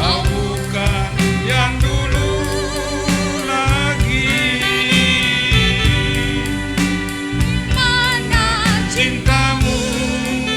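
A Javanese song sung with vibrato over gamelan accompaniment, with frequent drum strokes throughout.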